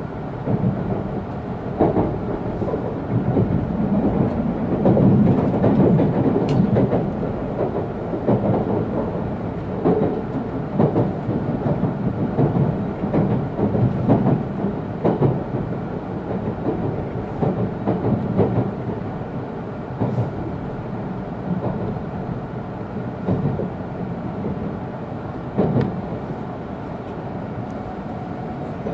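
E2-series Shinkansen car heard from inside, running with a steady rumble and irregular clacks of the wheels over rail joints and points on the approach to the terminal.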